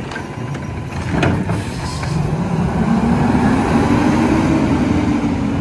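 Garbage truck engine revving up, its pitch rising steadily over a few seconds, with a short hiss and a few clicks about a second and a half in.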